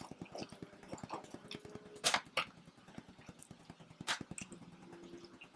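Close-up chewing and mouth sounds of people eating pizza: a run of small wet clicks, with a couple of sharper, louder smacks about two seconds and four seconds in.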